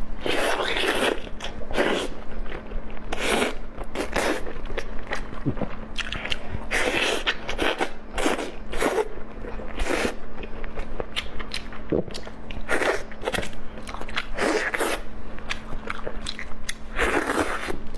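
Close-miked eating: a person biting and chewing food, with some crunchy bites, in short irregular bursts one after another.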